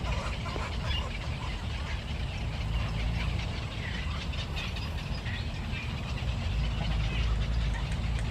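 Scattered faint bird calls over a steady low rumble.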